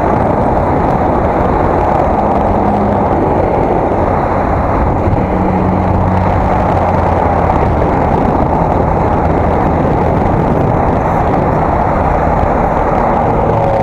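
Steady wind rush and road rumble on an action camera's microphone while riding a bicycle. A low hum comes in briefly around the middle.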